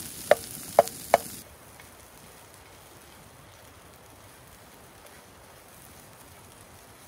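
Eggs, cheese, sausage and potatoes sizzling in a pan, with three sharp clinks of a utensil against the pan in the first second and a half. The sizzle then cuts off abruptly, leaving only a faint steady hiss.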